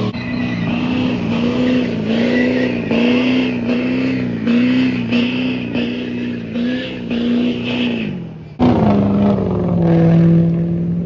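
Pickup truck engine held at high revs, its pitch pulsing rhythmically about twice a second. It cuts off abruptly about eight and a half seconds in, replaced by engine sound at lower, settling revs.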